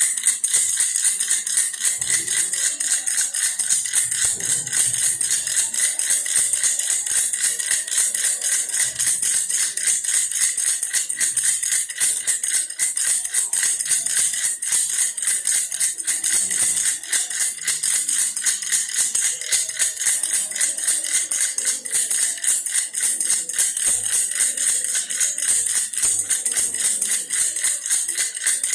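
Baby's toy bear rattle shaken rapidly and without a break, a dense, bright rattling.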